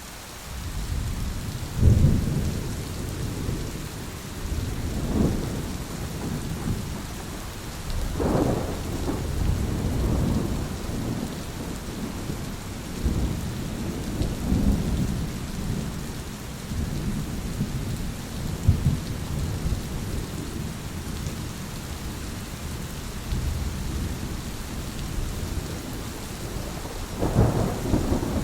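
Thunder rolling almost without a break over steady rain, with louder cracks about 2 seconds in, about 8 seconds in and again near the end.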